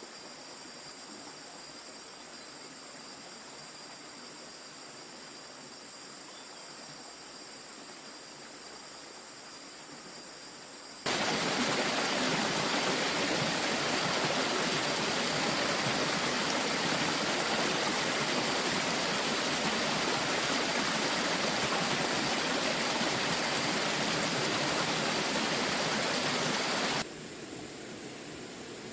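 Loud steady rushing noise like running water, which starts abruptly about eleven seconds in and cuts off abruptly near the end. Before it there is a quieter steady hiss with faint, steady high-pitched tones.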